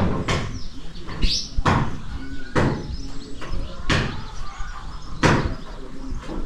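A series of sharp knocks or bangs, about half a dozen, coming at uneven gaps of roughly one to one and a half seconds.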